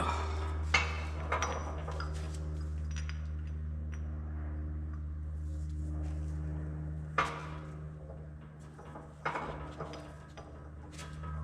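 Several sharp metallic clanks and clinks of steel parts and tools being handled, over a steady low hum.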